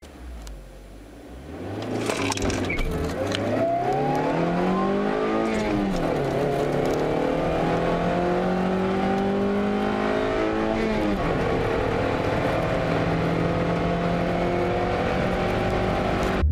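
Suzuki Swift's 1.3-litre four-cylinder engine under full-throttle acceleration, heard from inside the cabin. After a quieter first two seconds the revs climb steadily, drop at an upshift about six seconds in, climb again, and drop at a second upshift about eleven seconds in. The revs then rise only slowly in the higher gear.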